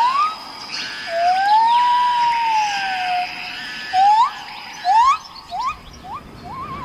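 Birds whistling: a rising whistle, then one long arched whistle, then a run of short upward-slurred whistles, about two a second near the end. Fainter higher chirping from other birds and a steady high tone run behind them.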